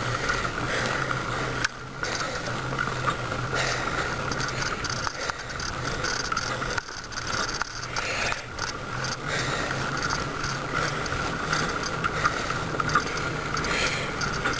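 Bicycle being ridden on a road: the chain and gear mechanism click and rattle over a steady rushing noise.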